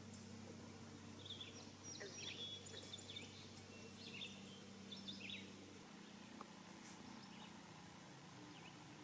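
Faint birdsong: many short, high chirps and calls. Under it runs a low, steady hum that stops about two-thirds of the way through.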